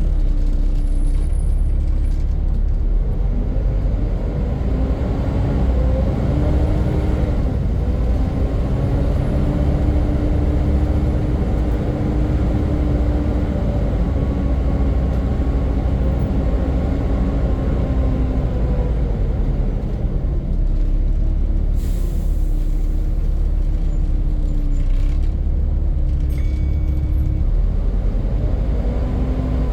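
Volvo B7 Gemini double-decker bus on the move: diesel engine running under a loud vacuum-cleaner-like whine, the 'hoover', that rises and falls in pitch as the bus pulls away, cruises and slows. A short hiss of air about two-thirds of the way through.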